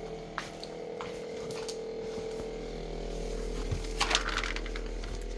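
Samsung Zipel SRT686FVIS refrigerator running with a steady hum and tone, its low hum growing stronger about halfway through. A few light clicks and clinks sound over it, several together about four seconds in.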